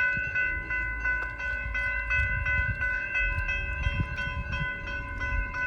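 Railroad grade-crossing signal bells, among them a General Signals Type 3 mechanical bell, ringing with rapid, regular strikes while the crossing is activated for a stopped train. A low rumble runs underneath.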